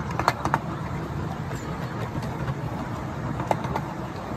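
Miniature railway train rolling along the track, heard from a riding passenger coach: a steady low rumble of wheels on rail, with a quick run of sharp clicks just after the start and two more near the end.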